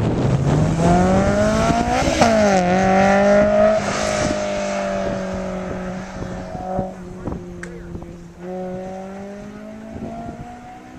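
Sports car engine accelerating hard, its pitch climbing and then dropping at an upshift about two seconds in. It then holds a steady note and fades as the car draws away.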